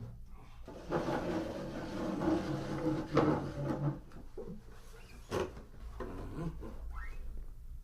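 Wooden creaking and rubbing, then a few sharp knocks, in a small room, recorded binaurally with a microphone at each ear.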